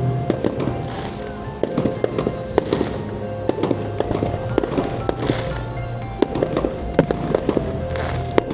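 Fireworks display: many sharp bangs and pops, several a second, with music playing underneath.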